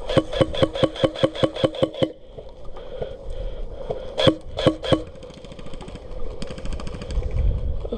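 Airsoft gun firing a rapid string of about a dozen shots as covering fire, with a few more shots about four seconds in. A fainter, faster burst of fire follows near the end.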